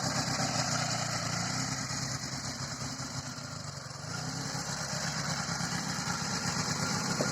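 Dnepr MT-10 air-cooled flat-twin motorcycle engine running in a homemade buggy, steady, easing off for a couple of seconds midway and then picking up again.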